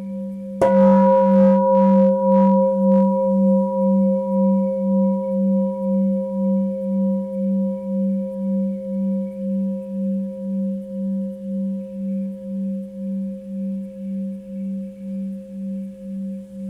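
Tibetan singing bowl struck about half a second in, then ringing on with a low, steadily pulsing wobble while slowly fading.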